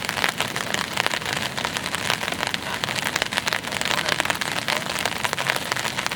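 Heavy rain, steady throughout, with many close drops striking a surface one after another.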